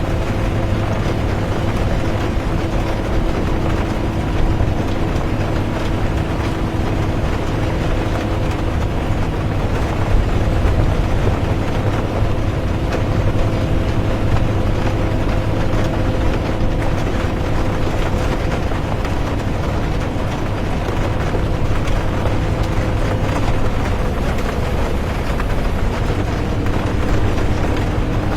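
Interior of a bus driving at night in the rain: a steady low engine and road rumble with a constant drivetrain hum, under an even hiss of rain.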